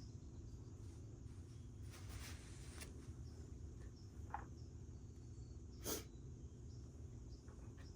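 Faint handling noises over a low steady hum: a few light clicks and one brief, louder rustle or scrape about six seconds in.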